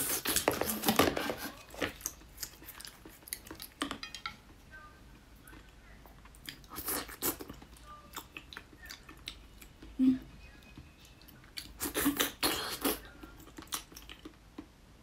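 Close-up biting and chewing of a large blood sausage, its casing tough, in bursts of a second or so: the loudest near the start and about twelve seconds in, with quieter chewing between.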